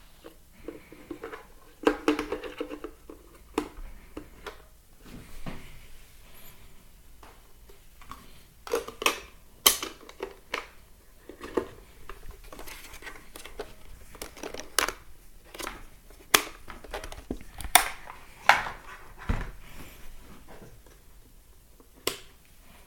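Irregular sharp clicks and knocks, a dozen or more spread through, from a plastic Turnigy 9X radio-control transmitter being handled.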